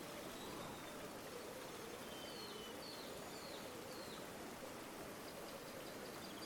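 Steady rush of a flowing river. A few faint, short bird chirps come about halfway through.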